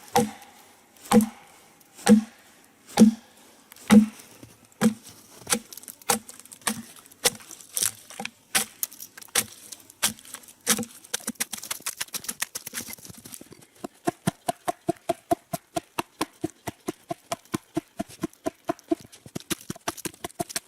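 Taiga axe chopping into a log, breaking out chips. The strikes come about once a second at first, then closer together, then turn into a quick run of lighter strikes, several a second, through the second half.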